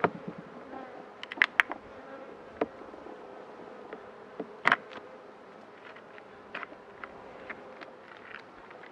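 Honey bees buzzing in a steady hum, with a few sharp clicks, the loudest a pair about one and a half seconds in and another about four and a half seconds in.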